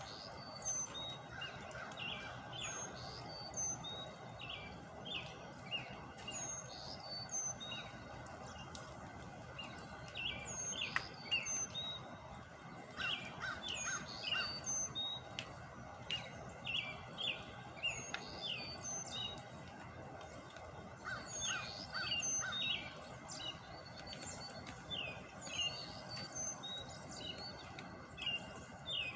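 Birds chirping, many short repeated calls over a steady background hum.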